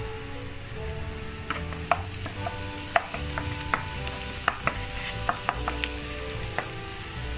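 Chopped onions and ginger-garlic paste sizzling in hot oil in a pan as they are stirred, with a spatula clicking and scraping against the pan many times from about a second and a half in.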